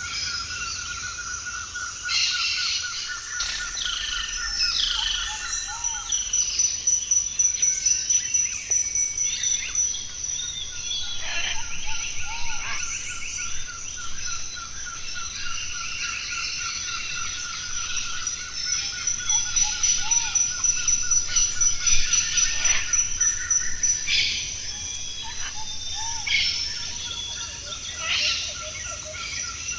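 Several forest birds calling and singing at once, short whistles and chirps throughout. Beneath them run a continuous high, rapidly pulsing trill and a lower pulsing trill that stops for several seconds early on and then resumes.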